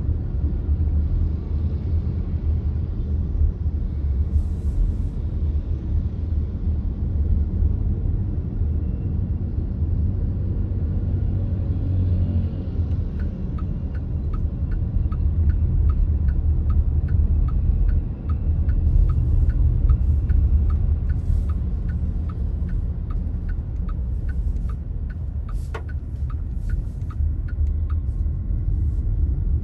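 Car driving, a steady low road-and-engine rumble heard from inside. From about a third of the way in until near the end a regular ticking runs at about one and a half ticks a second, with one sharper click just before it stops.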